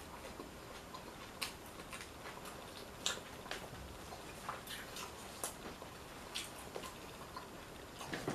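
Someone chewing a crunchy hard-shell taco: irregular sharp crackles and clicks scattered through, a dozen or so.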